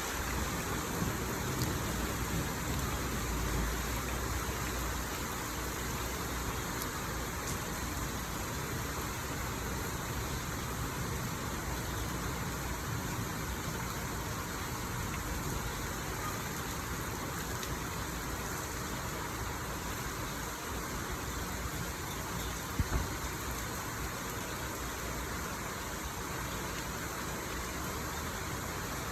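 Steady rain falling, with a low rumble in the first few seconds and two sharp knocks in quick succession late on.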